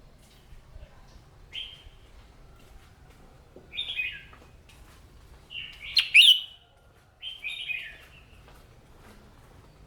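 Red-whiskered bulbul singing: short, bright chirping phrases a second or two apart, the loudest about six seconds in.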